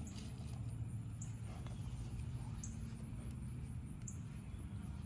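Quiet outdoor ambience: a steady low hum with a short, high-pitched chirp repeating about every second and a half.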